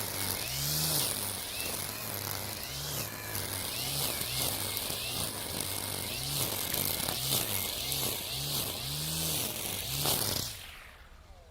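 Makita 40V cordless brushcutter spinning a nylon trimmer-line head through tall weeds, its whine rising and dipping over and over as the line bites into the growth and the trigger is worked. It winds down and stops about ten seconds in.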